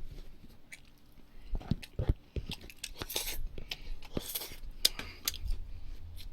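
Eating at a table: utensils clicking against dishes and chewing, with two brief rustles about three and four seconds in.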